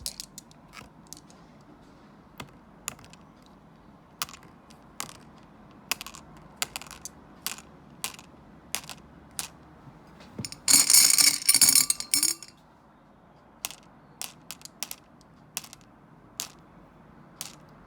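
Small stones dropped one by one into a cup of water, each landing with a sharp click. About eleven seconds in, a handful goes in at once as a loud rattle of clicks lasting over a second.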